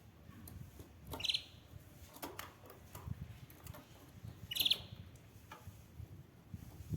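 Canary giving two short, high chirps, about a second in and again a few seconds later, among faint clicks.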